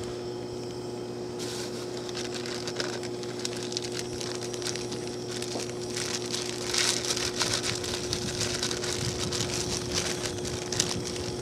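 Steady low electrical hum of a power transformer, with a constant pitch and higher overtones, under irregular light ticking and crackling that gets busier about halfway through.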